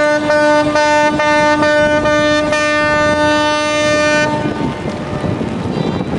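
Ship's horns sounding as a ship leaves port: one long steady blast with shorter repeated toots layered over it. The horns stop about four and a half seconds in, leaving wind noise on the microphone.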